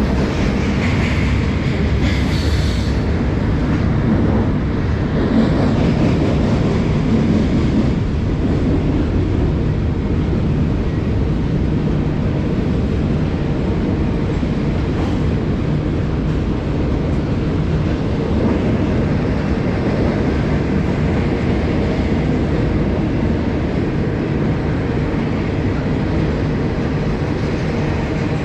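Freight train rolling past with a steady, loud rumble that holds even throughout; no horn.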